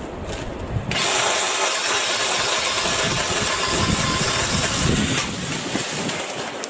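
BLACK+DECKER 18V cordless saw running, most likely cutting a branch: it starts abruptly about a second in, runs steadily for about four seconds, then stops and dies away.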